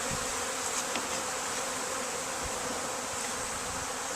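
A large swarm of honey bees buzzing steadily, the dense hum of many bees at once.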